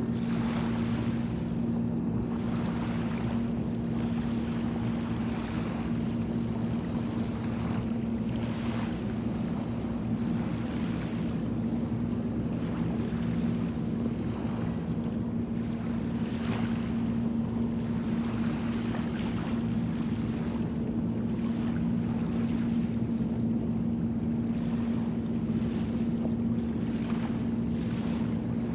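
A boat engine running with a steady drone, over waves washing and wind on the microphone.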